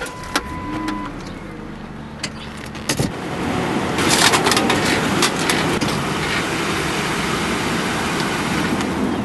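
2001 Lincoln Town Car's V8 running just after being started, with a steady warning chime for about the first second. From about three seconds in, a louder, even rushing noise sits over the engine.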